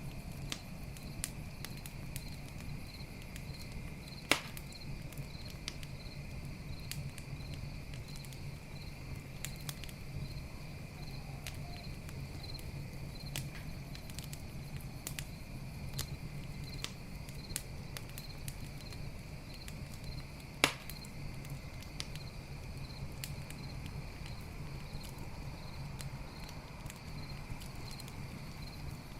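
Wood campfire crackling with scattered small pops and two sharp, loud pops, over crickets chirping in a regular, even rhythm and a low steady hum.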